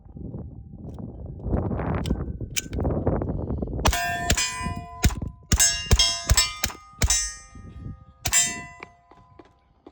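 Steel targets clanging and ringing as rounds from a Silencer Co. Maxim 9, an integrally suppressed 9mm pistol, strike them: about nine hits in quick succession starting about four seconds in, each leaving a ringing tone.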